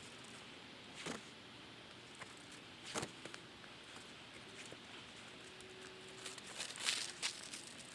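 A few sharp knocks or cracks, about a second in, about three seconds in, and a short cluster near the end, over a steady background hiss.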